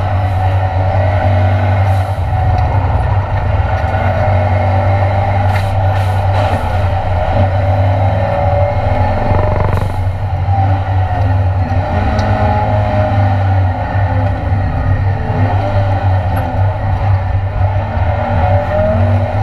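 Ford Escort Mk2 Cosworth race car's engine running hard under racing load, heard from inside the stripped, roll-caged cabin. It makes a loud steady drone, and its pitch rises and falls with throttle and gear changes.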